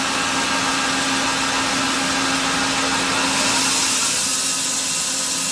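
Doosan Puma 400 CNC lathe spindle running at 500 RPM: a steady machine whir with a hum under it. A bit past halfway the hum drops away and the whir grows brighter as the spindle speeds up toward 1000 RPM.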